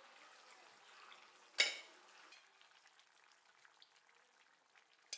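Faint sizzling and crackling as pork and its gravy are scraped from a pressure-cooker pot into a pot of frying snails, with one sharp metal clink of the spatula against the pot about a second and a half in and a smaller one near the end.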